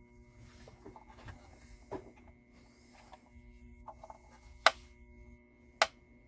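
Two loud, sharp knocks of hard objects handled at a workbench, a little over a second apart near the end, after quieter clicks and rustles. A steady faint electrical hum runs beneath.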